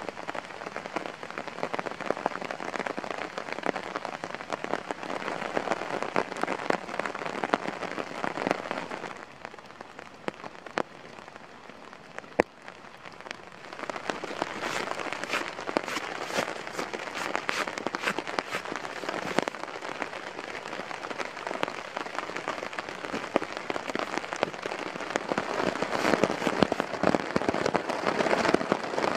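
Steady rain, with drops pattering sharply on a tarp overhead. The rain eases for a few seconds before the middle, with a single sharp click about twelve seconds in, then the crackly patter on the tarp grows dense again.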